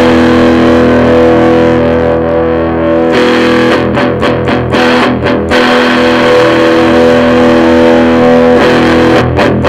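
Electric guitar played through a Mesa Boogie Recto-Verb 25 tube combo with the gain turned down and the mids cut: held chords ring out, broken by short choppy stops around the middle and again near the end.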